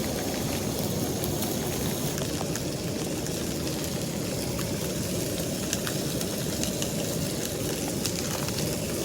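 Fish frying in hot oil in a pan on a camp stove: a few faint scattered crackles over a steady rushing noise.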